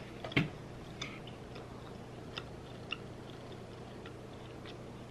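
A person chewing a mouthful of food close to the microphone: soft, irregular wet mouth clicks, with a louder click about half a second in. A low steady hum runs underneath.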